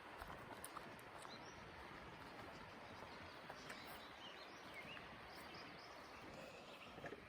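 Small birds chirping now and then over a faint, steady rush from the swift mountain river below.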